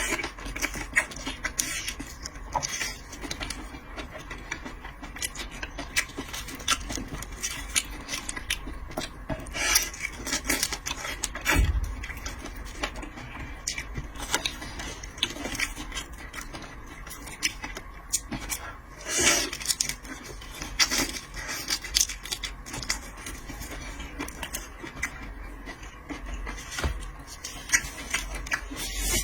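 Seafood being eaten and handled close to the microphone. Irregular clicks, scrapes and rustles of shells and utensils run throughout, with a few louder crunches about ten and nineteen seconds in.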